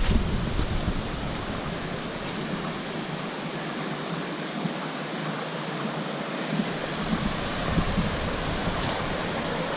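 Steady rushing of a jungle river and its waterfalls, an even hiss of water.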